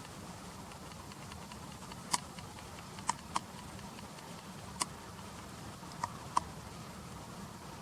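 Six or so sharp, separate clicks at irregular intervals over faint steady outdoor background noise with a low hum.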